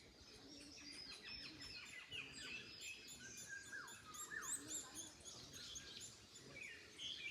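Several songbirds chirping and singing at once, a dense overlapping mix of short high chirps and quick downward-sliding whistles, over faint wind in trees.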